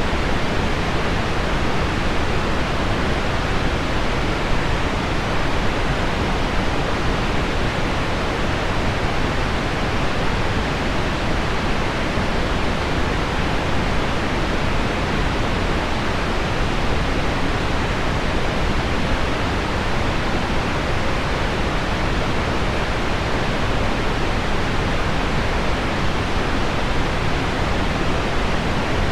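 Steady deep pink noise: a dense, even hiss weighted toward the low end, with no breaks, drips or changes.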